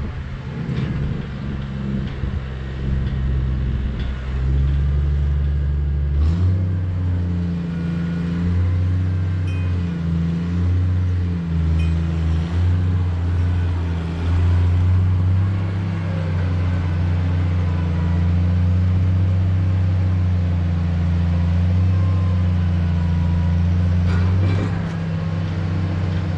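A vehicle engine running steadily, speeding up about six seconds in, dipping briefly a few times soon after, then holding an even speed.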